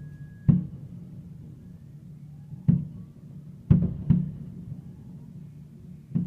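Fireworks shells bursting in five deep booms at uneven intervals, over a steady low hum.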